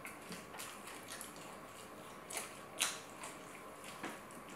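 Close-miked eating sounds: soft chewing with scattered wet mouth clicks and small crunches, and two sharper crunchy clicks about two and a half and three seconds in.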